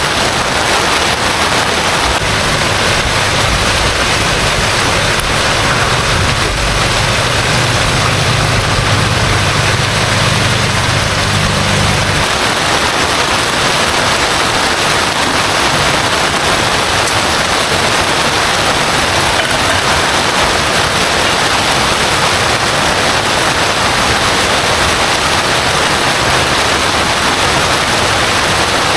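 Heavy rain falling steadily. A low rumble runs under it for several seconds in the first half, then stops abruptly.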